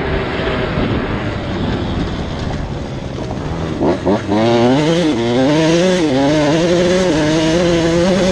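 Motocross dirt bike engines running. About four seconds in, a nearby bike blips its throttle sharply, then keeps running with a pitch that wavers up and down.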